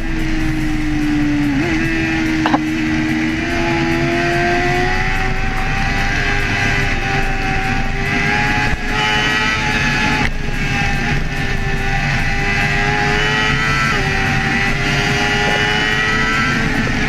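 Sport bike engine running at high, nearly steady revs, its pitch dipping and picking up again briefly about a second and a half in, over a steady rushing noise.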